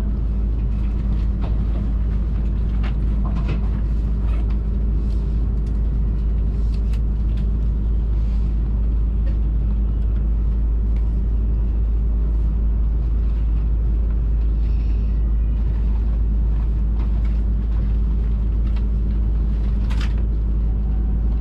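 Hayabusa Shinkansen cabin noise at speed: a steady, loud low rumble with a constant hum and scattered faint clicks and ticks.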